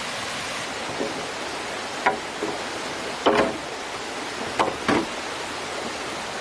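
A steady rush of flowing stream water, with five sharp hollow knocks of bamboo poles being handled, a few ringing briefly.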